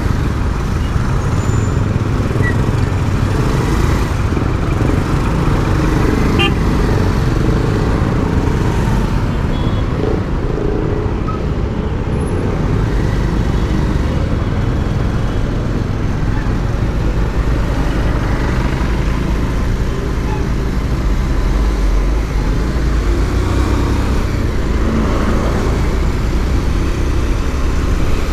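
Vehicle on the move in city traffic: steady engine and road noise, with other traffic around.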